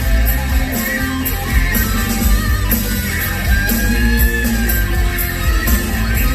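Rock music with guitar, drums and heavy bass playing loudly through a car's audio system, fitted with Kicker CS Series CSC68 6x8-inch coaxial speakers and a factory subwoofer.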